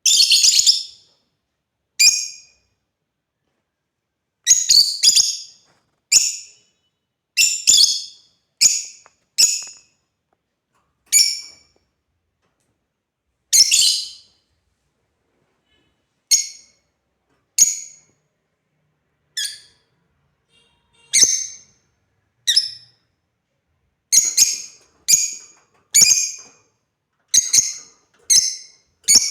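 African lovebirds giving short, shrill chirps, one call or a quick few at a time, with pauses of a second or more between them.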